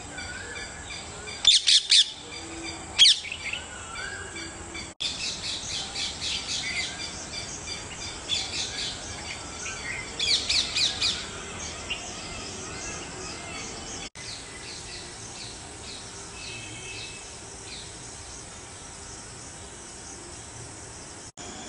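Birds chirping and calling in bursts of rapid, high chirps over a faint steady outdoor background, loudest a couple of seconds in and again about ten seconds in, then thinning out.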